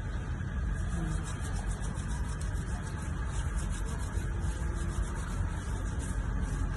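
Steady low rumble of a car running, heard from inside the cabin, with a faint scratchy hiss over it.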